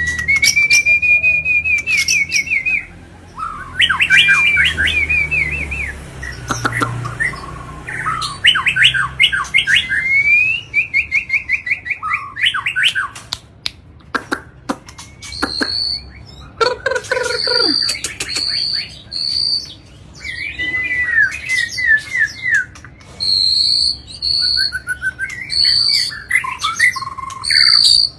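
White-rumped shama singing loudly and without a break: varied phrases of rapid trills and fast repeated notes mixed with sharp clicks, and in the second half short high whistled notes repeated several times.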